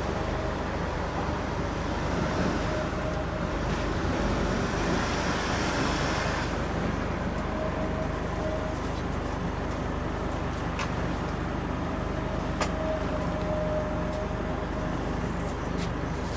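Steady traffic noise and a running engine's hum, with a brief hiss swelling about four to six seconds in and a few sharp clicks.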